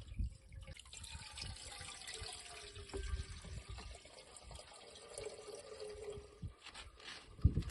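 Water trickling and dripping, faint and uneven, with a few soft knocks.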